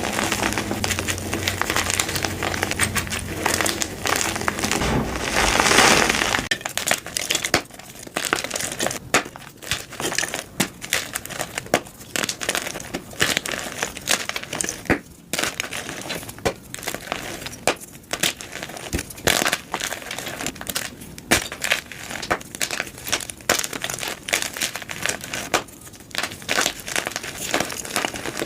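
Blocks of gym chalk being crushed and crumbled: dense, continuous crunching for about the first six seconds, then a long run of separate sharp crunches and crackles.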